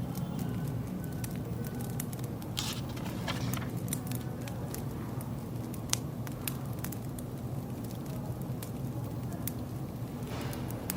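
Wood fire crackling: scattered, irregular sharp pops, one louder near the middle, over a low steady background noise.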